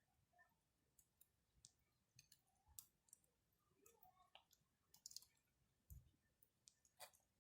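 Wood campfire crackling faintly: scattered, irregular sharp pops and snaps.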